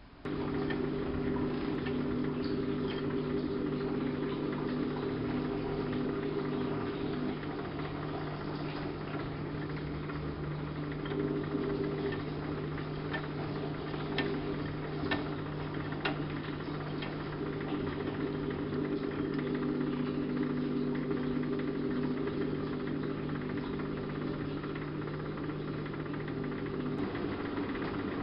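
Siemens Siwamat IQ washing machine starting up abruptly and running with a steady motor hum, a few light clicks around the middle.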